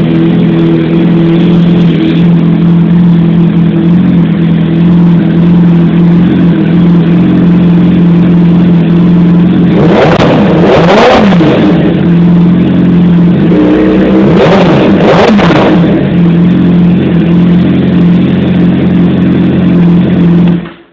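2007 Suzuki GSX-R600's inline-four engine idling loudly through an aftermarket Two Brothers exhaust. The throttle is blipped twice in quick succession about ten seconds in, and twice more about fourteen seconds in, before it settles back to idle. The sound cuts off suddenly at the very end.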